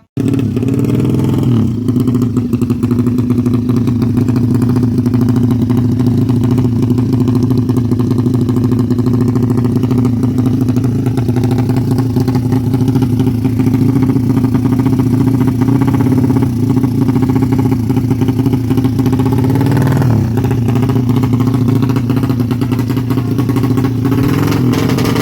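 Honda Karisma motorcycle's single-cylinder four-stroke engine running at a loud, steady speed, with a short drop and rise in revs about two seconds in and again near twenty seconds in.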